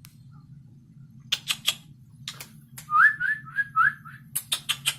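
A person calling cats with sharp kissing smacks in small groups, and about three seconds in a quick run of five short rising whistles.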